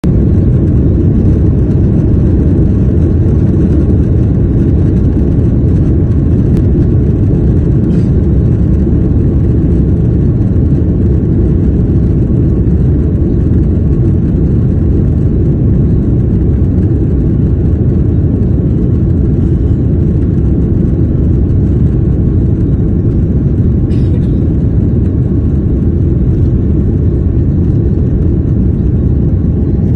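Steady, loud low rumble of an Airbus A330-300's jet engines and airflow heard inside the cabin during take-off.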